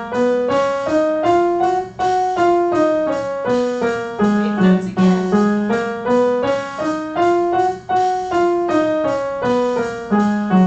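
Piano playing a two-octave F sharp major scale, one note at a time at about three notes a second: up, down, then up and down again.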